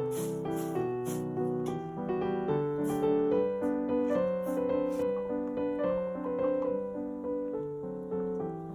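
Background piano music: a gentle melody of single and chorded notes at an even pace.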